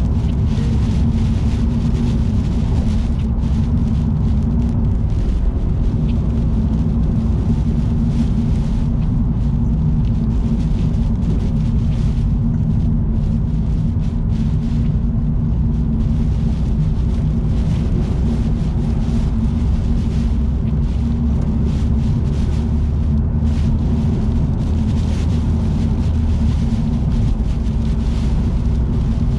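Steady road noise inside a car cruising on an expressway: a constant low drone of tyres and engine with a faint hum and a hiss above it.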